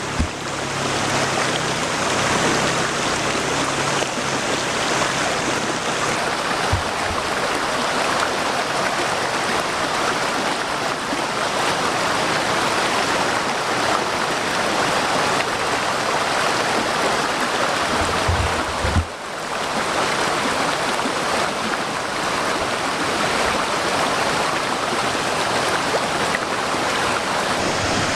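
Small forest waterfall: water falling and splashing over rocks in a steady, even rush, with a brief drop in level about two-thirds of the way through.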